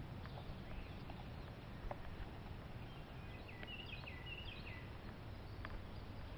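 Quiet rural outdoor ambience: a steady low rumble, and a distant bird singing a short phrase of stepped, falling high notes about three to four seconds in.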